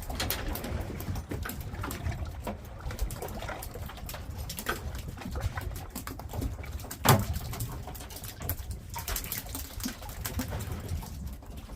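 Low, fluttering rumble of wind and sea around a small fishing boat, with scattered light knocks and one sharp thump about seven seconds in.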